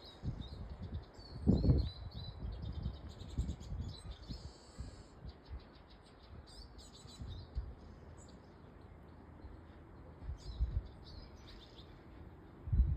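Small garden songbirds at a feeder chirping and twittering in quick, high notes throughout. Irregular low rumbles and thumps come and go underneath, the loudest about one and a half seconds in.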